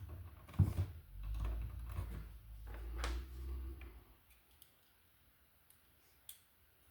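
Hand tools and electrical wires being handled at an outlet box: a sharp click, then a few seconds of low rumbling handling noise with scattered clicks, then only faint ticks.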